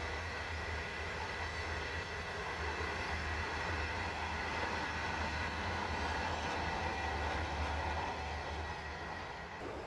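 Passenger carriages of The Ghan rolling over a rail bridge: a steady rumble of wheels on rails with a faint, steady high tone above it, easing off near the end as the last carriage passes.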